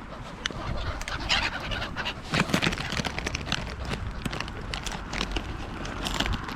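Crows and gulls making short, scattered calls while they gather for peanuts.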